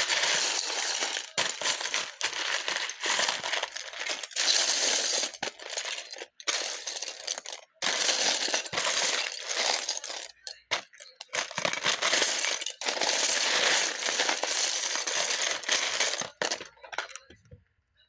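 Loose Lego bricks clattering continuously as they are rummaged through, with a few short breaks; the clatter stops near the end.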